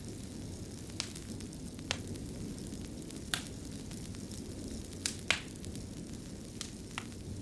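Fire in a fireplace crackling softly: a steady low rumble of burning with sharp, separate pops about once a second, two close together and loudest about five seconds in.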